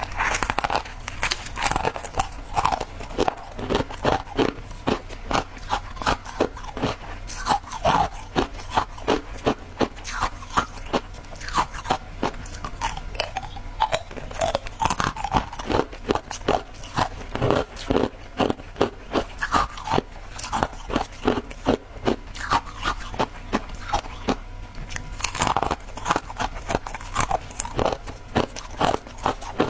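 Shaved ice being bitten and chewed close to the microphone: a continuous run of loud, irregular crunches, several a second.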